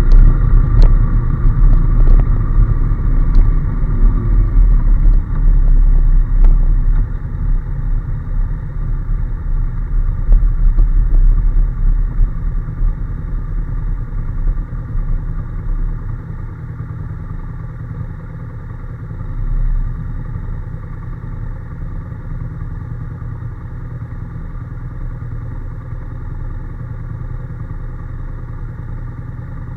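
Honda NC750S parallel-twin motorcycle being ridden, its engine and road rumble loud at first. From about six seconds in the noise falls away over roughly ten seconds, as the bike eases off, to a steadier, quieter running, with a brief swell near two-thirds of the way through.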